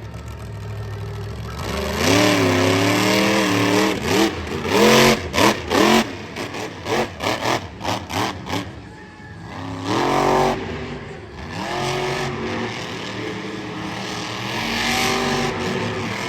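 Monster truck engine revving hard, its pitch repeatedly rising and falling, with a run of short sharp bangs in the middle.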